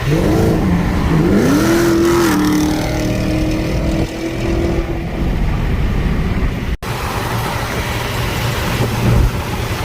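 V8 muscle car engine revving, its pitch rising and falling twice, then holding a steady note under acceleration; after a sudden cut, a rougher, lower engine and road sound follows.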